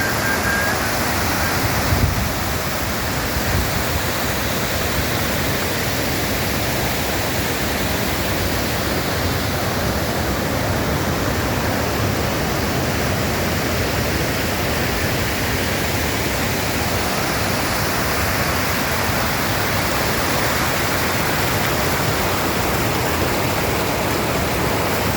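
Steady rushing of water, an even unbroken noise spread across high and low pitches, with a short high whistle-like tone at the very start.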